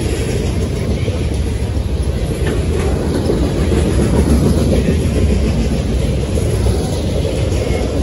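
Loaded centerbeam flatcars of a freight train rolling past at speed: a steady rumble of steel wheels on the rails.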